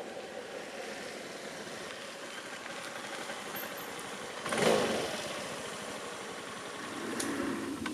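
Small motor scooter's engine running. There is a brief loud surge about halfway through, and the engine pitch rises near the end.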